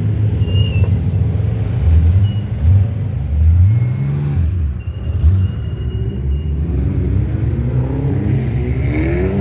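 Car engines rumbling low and steady as cars cruise past. One revs up and back down about three to four seconds in, and another accelerates near the end, its pitch climbing.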